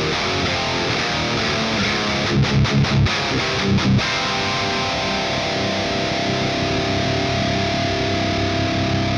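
High-gain distorted electric guitar with a Peavey 5150-style scooped metal tone, playing a riff. A run of short, choppy chugs comes about two and a half seconds in, then a chord is left ringing from about four seconds in.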